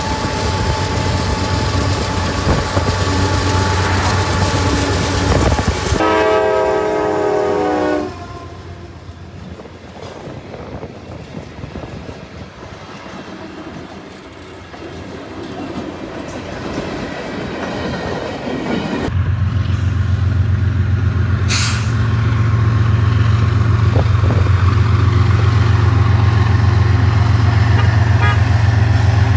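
A passing train, then a multi-note diesel locomotive horn chord blown for about two seconds. After a quieter stretch, a diesel locomotive engine runs with a steady low drone.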